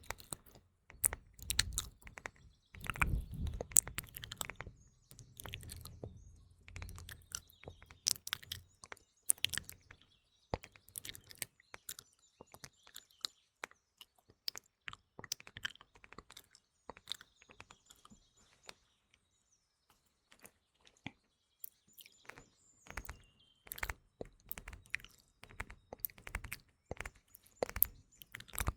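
Close-miked ASMR mouth sounds, wet clicks and smacks, mixed with fingernail tapping on a phone, over faint chirping of songbirds. The clicking is dense, with a short lull a little past the middle where only the faint birdsong remains.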